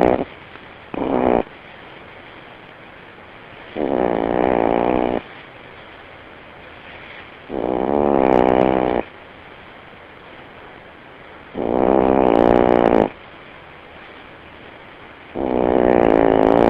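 Dog snoring really loud: a long, pitched snore of about a second and a half, repeating roughly every four seconds, with a shorter one about a second in.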